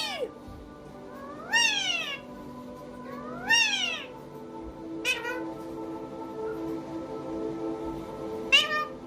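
Four meows: two longer ones with a rising-then-falling pitch, then two short ones, over steady background music.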